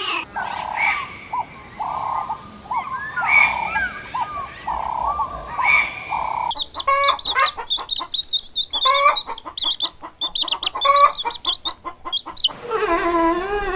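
Chickens clucking and calling in short separate notes, then a faster, denser run of calls from about six and a half seconds in.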